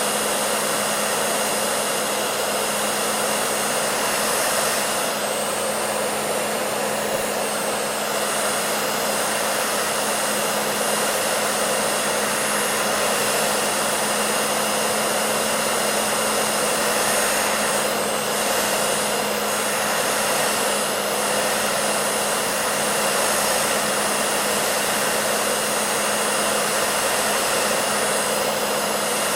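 Hair dryer running steadily: an even rushing air noise over a constant motor hum.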